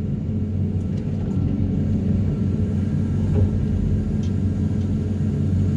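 Excavator working a vibro hammer on sheet-pile extraction: heavy machinery running steadily with an even low hum.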